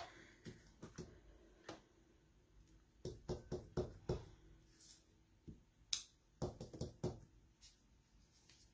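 Light taps and clicks of a rubber stamp being inked on an ink pad and pressed onto card stock, several quick taps in a row about three seconds in and again near seven seconds.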